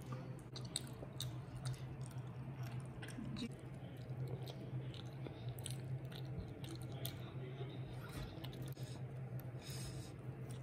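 A child chewing and biting into homemade chocolate momos, with small crunches and clicks as the dumplings are eaten and broken apart, over a steady low hum.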